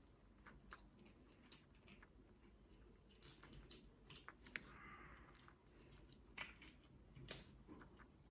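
Green-cheeked conure's beak working at a walnut: faint, scattered crunching clicks, a few louder near the middle and near the end.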